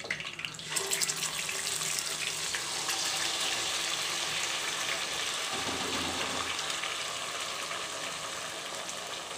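Onion and cashew paste sizzling as it is poured into hot oil from a mixer-grinder jar. A steady hiss starts about a second in and eases slightly near the end.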